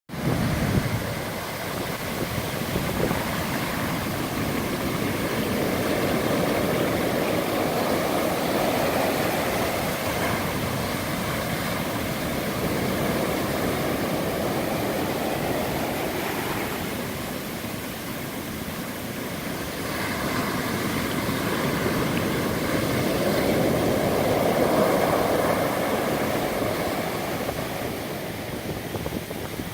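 Atlantic Ocean surf: waves breaking and washing ashore as a continuous rush, swelling and easing, loudest about a third of the way in and again about four-fifths of the way through.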